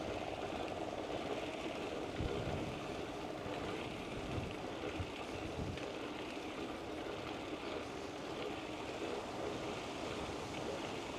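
Steady rushing noise of air and rolling tyres on a moving bicycle, with a few low gusts of wind buffeting the microphone.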